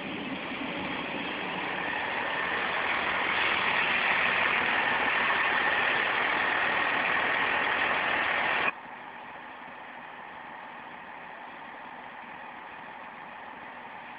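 Train running past close by: a rising rush of wheel and engine noise that stays loud for several seconds. About two-thirds of the way through it cuts off abruptly to the steadier, quieter diesel engine idle of a Class 158 unit standing at the platform.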